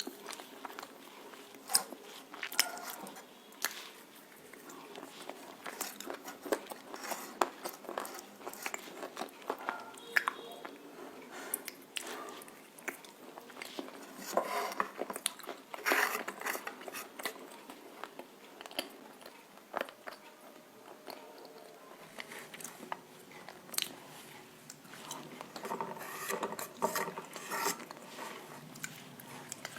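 Close-up crunching bites and chewing of roasted nakumatt eaten with red clay paste: a string of sharp, irregular crunches.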